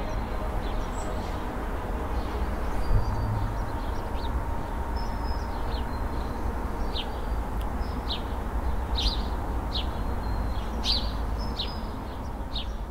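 Outdoor ambience: birds giving many short, high chirps over a steady low background rumble.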